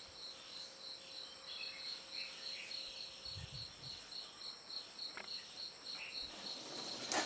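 Faint cricket chirping, an even pulsing high trill at about three pulses a second. A soft thump about three and a half seconds in and a sharp click near the end.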